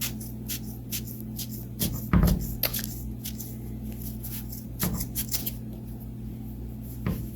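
Scissors snipping cotton balls into small pieces: a run of short, sharp snips and clicks, with a louder thump about two seconds in, over a steady low hum.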